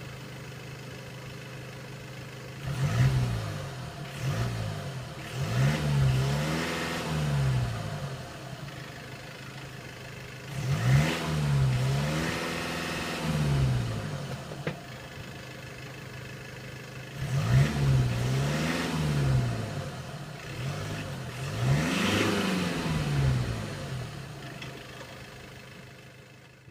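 Stock 2016 Skoda Octavia III 1.6 TDI four-cylinder turbodiesel at a steady idle, revved in short blips several times in three clusters and dropping back to idle after each. Heard at the exhaust, the note fades off near the end.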